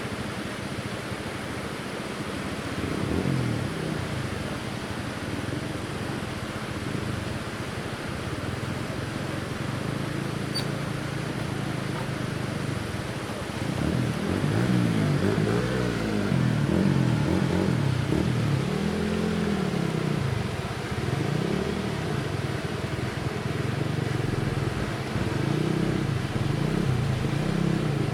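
A small engine running with its speed rising and falling over and over, louder in the second half.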